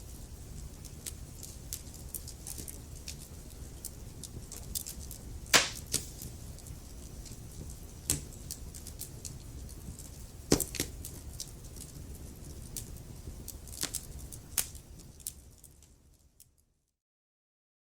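Wood fire crackling: a low steady rumble of burning with scattered sharp pops, the loudest about five and a half and ten and a half seconds in. Near the end the sound fades out to silence.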